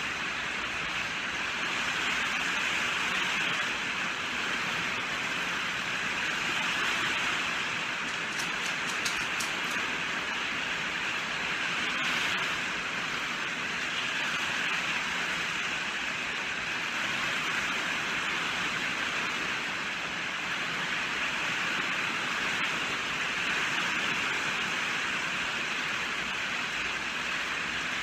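Steady rainfall, an even hiss that never lets up, with a few faint sharp ticks about eight to nine seconds in.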